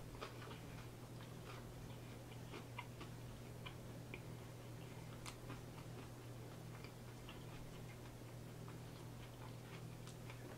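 Faint, irregular small clicks scattered over a steady low electrical hum.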